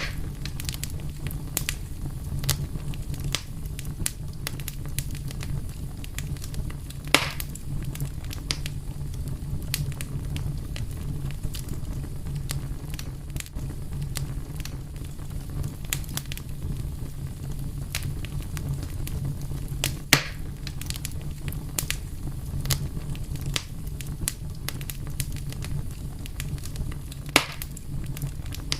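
Wood fire burning with a steady low rumble and continual crackling, with three louder pops, about 7, 20 and 27 seconds in.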